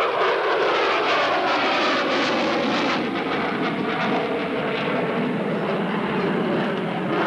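Aircraft engine noise as a plane flies past, its pitch falling over the first few seconds.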